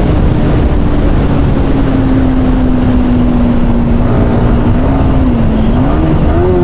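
Motorcycle ridden at highway speed: heavy wind rumble on the microphone over a steady engine note that dips about five seconds in and then climbs again near the end.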